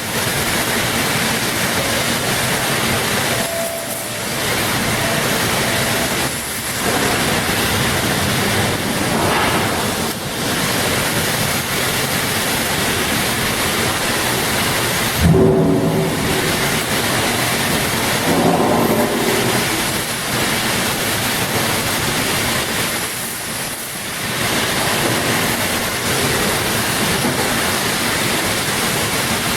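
Steady loud rushing noise, broken about halfway by a sudden knock with a short ringing tone, and a second brief ringing sound a few seconds later.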